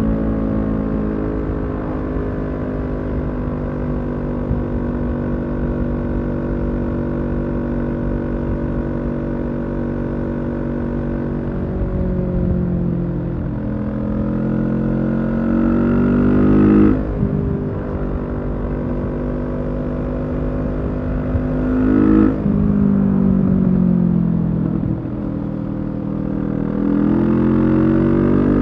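Kawasaki Z650's parallel-twin engine through a Leo Vince EVO carbon exhaust, cruising at fairly steady revs for a while, then accelerating through the gears: the revs climb and fall sharply at each upshift, three times in the second half.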